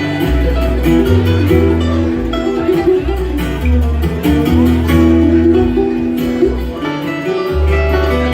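Bluegrass music: acoustic guitar picking quick runs over a stepping bass line.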